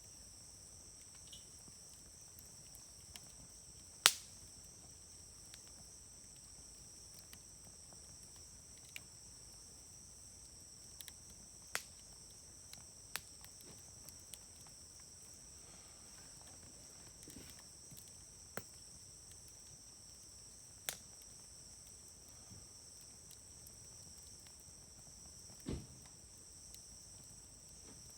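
Wood campfire crackling, with scattered sharp pops; the loudest comes about four seconds in. Behind it runs a steady high trill of insects.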